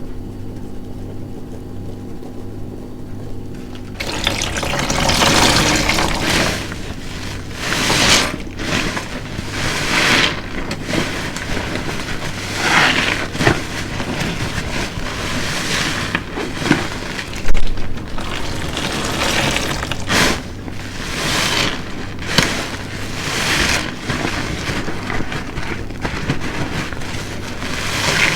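A large car-wash sponge soaked in soapy dish detergent is squeezed again and again, making wet squelching and running liquid in surges every two to three seconds. The squeezing starts about four seconds in, after a steady low hum.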